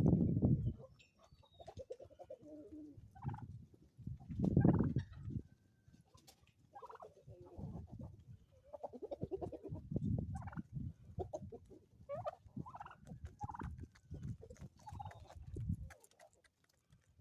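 Domestic turkeys gobbling in a string of calls, among clucking chickens, with the loudest calls near the start and about four to five seconds in.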